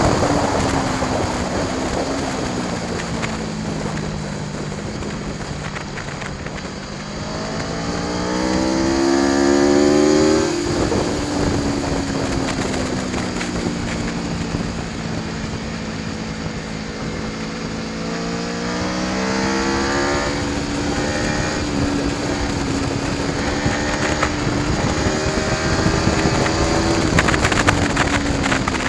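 Aprilia Tuono V4 1100 Factory's V4 engine being ridden hard. The revs fall over the first several seconds, climb steeply from about seven to ten seconds in, drop suddenly, then rise and fall again. Steady wind rush runs under it throughout.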